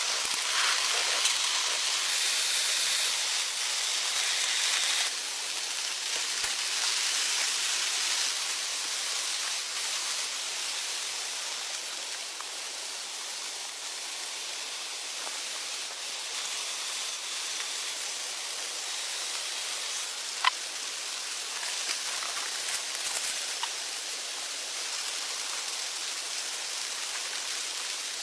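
Heavy rain falling, a steady hiss with a few sharp drip ticks, slightly louder in the first five seconds.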